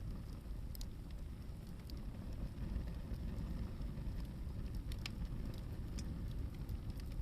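Hardwood campfire burning, with scattered sharp crackles and pops, one of the loudest about five seconds in, over a low steady rumble.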